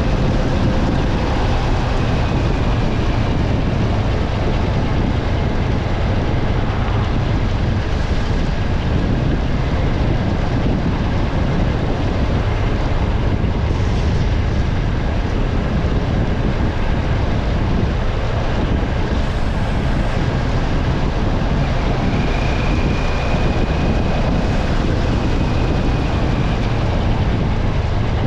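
Steady road noise of a vehicle driving on a wet road after heavy rain: tyre noise on the wet surface over a constant low rumble, with a faint high whine.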